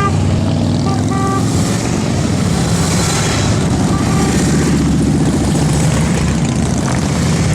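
Several motorcycle engines running together in a steady low rumble, with a couple of short horn beeps about a second in.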